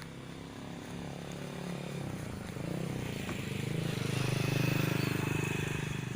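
A motorbike engine passing by, growing louder to a peak a little past the middle and then fading. Faint bird chirps come in near the end.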